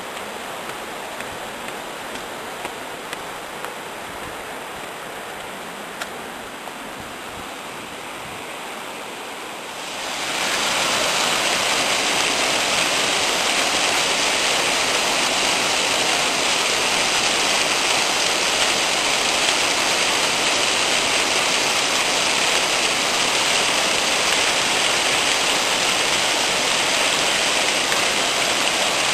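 Waterfall pouring over columnar-jointed rock, a steady rush of falling water that about ten seconds in becomes suddenly much louder and brighter, then holds steady. A few faint ticks are heard in the quieter first part.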